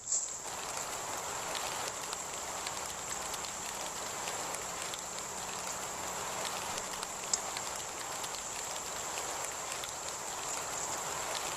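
Steady rain with many small drop impacts, under a continuous high-pitched cricket trill. One sharper drop stands out about seven seconds in.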